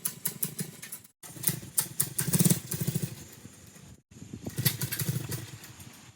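212cc single-cylinder four-stroke minibike engine running rough and uneven, its firing stumbling and surging, in three stretches that each cut off abruptly. The engine is running badly after sitting, and the owner wonders whether a loose spark plug is the cause.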